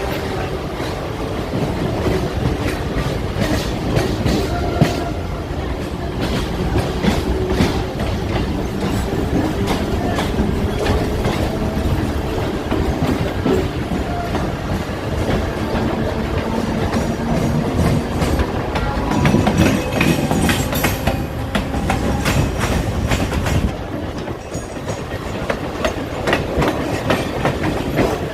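Train running on the track: a continuous rumble with a rapid clickety-clack of wheels over rail joints.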